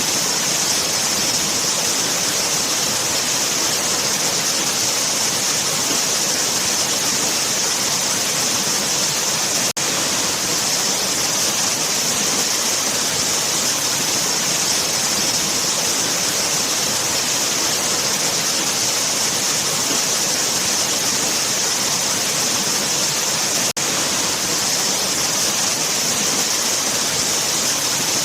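Waterfall: a steady, full rushing of falling water with a bright hiss, dipping for an instant twice.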